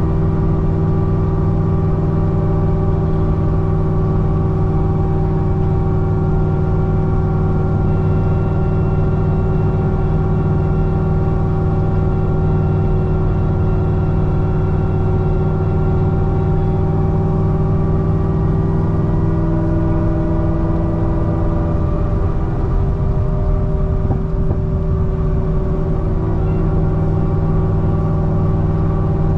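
Supercharged C6 Corvette ZR1's 6.2-litre LS9 V8 running at a steady engine speed while cruising, a constant drone that shifts slightly in pitch about twenty seconds in.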